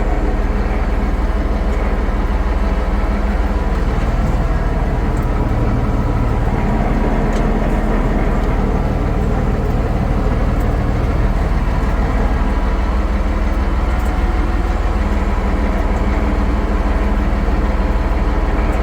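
International 1066 tractor's turbocharged six-cylinder diesel running steadily while it drags a heavy log.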